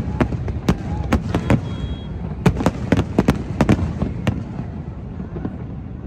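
Fireworks going off in quick, irregular bangs over a low rumble, thinning out after about four seconds.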